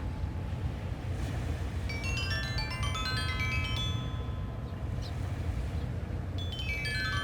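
Sanukite stone lithophone, tuned to A=432 Hz, playing quick runs of pentatonic notes that ring on and overlap: one run a couple of seconds in and another near the end. Under it is a steady low rush of wind on the beach.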